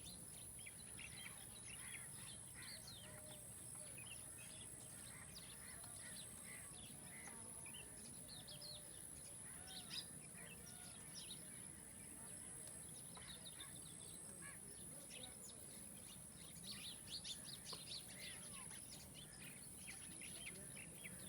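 Several birds chirping faintly in short, quick calls, busier for a moment near the end, over a steady high-pitched hiss.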